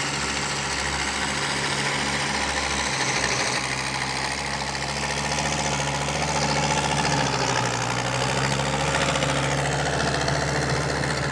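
Fiat DT90-90 tractor's diesel engine running steadily, with an even low note.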